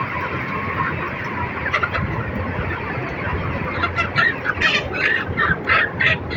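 A flock of 8-week-old poultry calling all at once in a steady mass of chatter. In the second half, louder repeated calls come through at about three a second.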